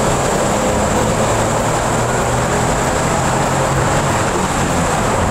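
Toyota Wigo's 1.0-litre three-cylinder engine pulling steadily under full throttle, with tyre and road noise, heard from inside the cabin.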